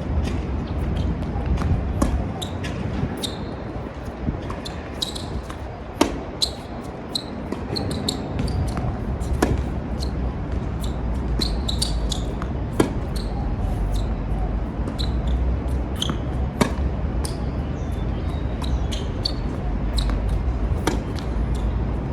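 Tennis balls struck with rackets in a rally: a sharp pop every three to four seconds, with fainter bounces and clicks between. A steady low rumble of strong wind on the microphone runs underneath.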